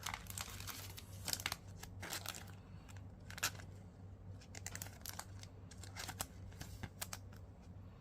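Foil trading-card booster pack crinkling and tearing as it is opened, with light rustles and clicks of the cards being handled.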